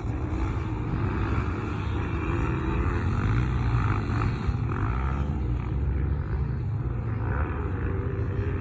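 Small two-stroke engine of a Yamaha PW50 mini dirt bike running, its note wavering up and down as the throttle changes, over a steady low rumble.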